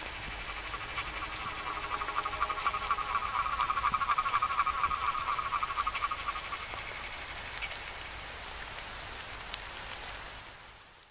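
Steady rain falling, with a rapid pulsing animal trill for the first several seconds, like a calling frog. The rain fades out at the end.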